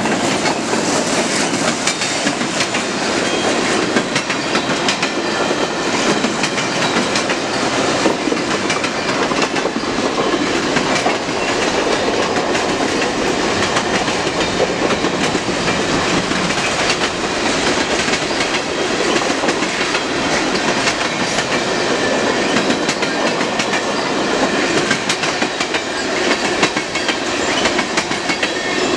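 Cars of a CN mixed freight train, covered hoppers and tank cars, rolling past close by: a steady rattle of steel wheels on the rails with many small rapid clicks.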